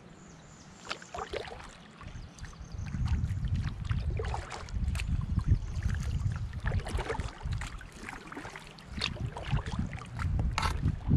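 Kayak paddle strokes in the water: irregular splashes and drips, with wind rumbling on the microphone from about three seconds in.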